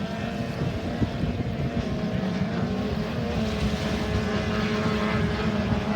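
Racing boats' 30 hp outboard motors running steadily, several engine notes at slightly different pitches drifting up and down together.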